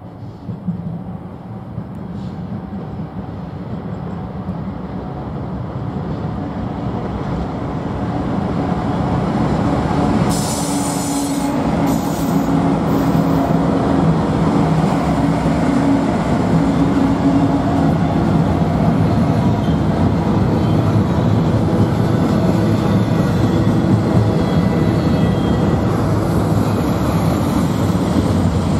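A Norfolk Southern intermodal train passes: GE Dash 9-44CW and Dash 8-40CW diesel locomotives, their engines running under load, grow louder over the first ten seconds as they approach and go by. Then the steady rumble of double-stack container cars rolling on the rails follows. A few short high-pitched sounds come about ten to thirteen seconds in.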